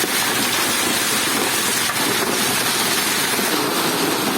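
Storm noise: a steady, loud rush of wind-driven rain.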